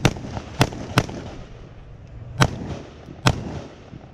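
Five gunshots from a shooter firing a multigun competition stage, irregularly spaced: three in quick succession, then a pause, then two more spaced further apart.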